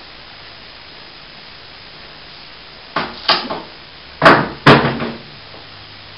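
Knocks and clatters of broken plasterboard debris being handled during clean-up: a quick run of three knocks about three seconds in, then two loud impacts about half a second apart.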